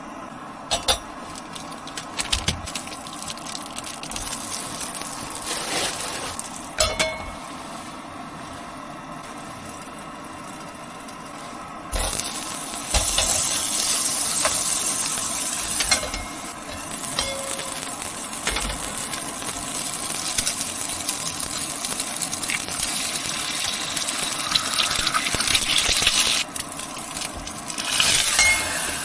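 Clinking of dishes and utensils, with a few sharp clicks early on. About twelve seconds in a loud steady hiss starts suddenly and carries on with breaks, like cooking or pouring.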